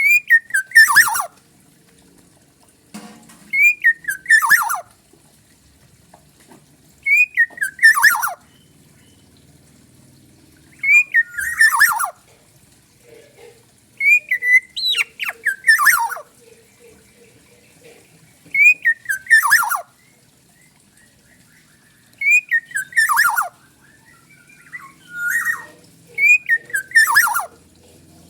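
Black-naped oriole (kepodang) singing: short, loud phrases of fluting whistled notes that slide downward, repeated about every three and a half seconds, eight phrases in all.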